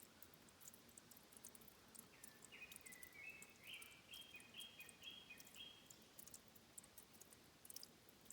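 Faint birdsong: a single bird sings one phrase of a dozen or so short, clear notes, alternating up and down between a higher and a lower pitch, starting about two seconds in and lasting about three and a half seconds. Faint scattered high ticks sound throughout.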